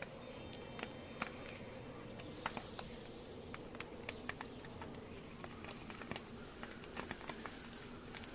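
Wood fire crackling in a fireplace: irregular pops and snaps over a soft steady hiss.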